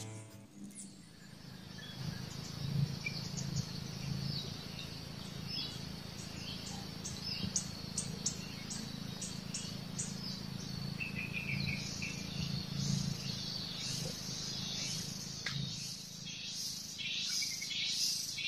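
Wild birds chirping: strings of short, high notes repeated at an even pace, then a faster run of repeated calls near the end. A low steady rumble lies underneath.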